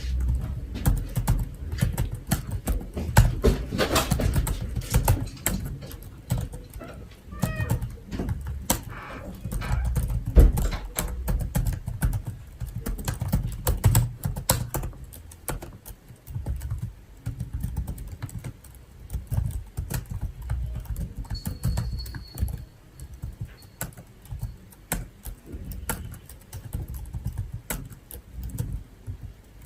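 Computer keyboard typing: irregular runs of keystroke clicks with dull low knocks from the keys and desk.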